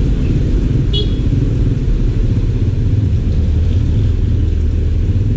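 Steady, loud low rumble of a car on the move, heard from inside the cabin, with a brief high squeak about a second in.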